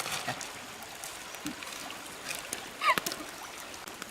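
Shallow stream water running steadily, with scattered clicks and knocks. About three seconds in comes a short squeak with a sharp knock, the loudest moment.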